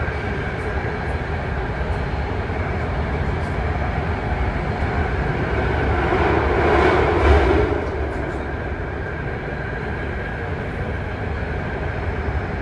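A BART train running at speed, heard from inside the car: a steady rumble with a faint high whine, and a swell of louder rushing noise about seven seconds in.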